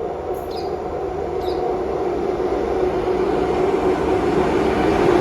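Train running and coming closer, a steady rumble that grows louder throughout. Two short high chirps sound about half a second and a second and a half in.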